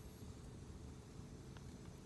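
Wood campfire burning quietly, a low steady rumble with a faint crackle about one and a half seconds in.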